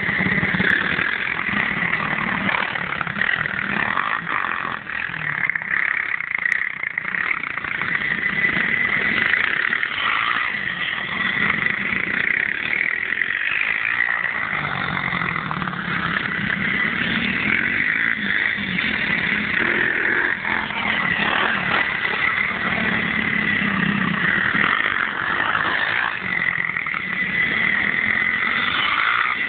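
Pit bike engines running, a steady motor sound through the whole stretch.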